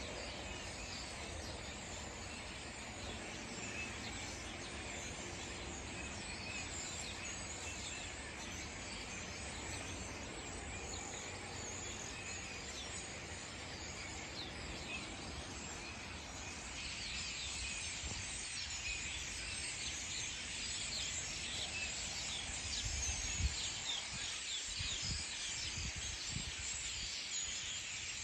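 A large flock of European starlings chattering in a tree: a dense, unbroken mass of many overlapping short calls that grows louder and denser about two-thirds of the way through, over a low rumble.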